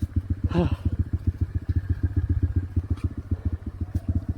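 Motorcycle engine running steadily at low revs, its exhaust pulsing evenly about ten times a second.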